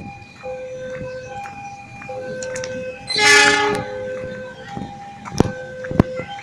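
A train horn sounds one short blast about three seconds in, over a repeating two-tone electronic warning signal. A couple of sharp clicks follow near the end.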